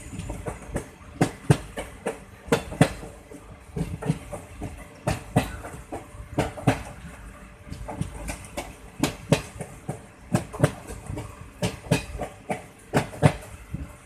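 Train wheels clacking over rail joints on a moving train: sharp clicks, often in close pairs, over a steady low rumble.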